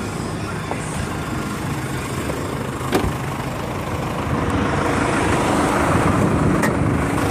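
Jeep Liberty CRD's 2.8-litre four-cylinder turbo diesel idling steadily, with a single sharp click about three seconds in. The engine sound grows louder and fuller from about four seconds on.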